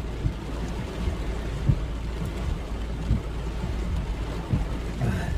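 Rain falling steadily in a thunderstorm, with wind rumbling and buffeting on the microphone in small irregular thumps.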